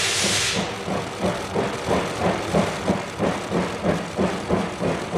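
Engine-like rhythmic chugging, about three beats a second over a steady low hum, after a short burst of hiss at the start.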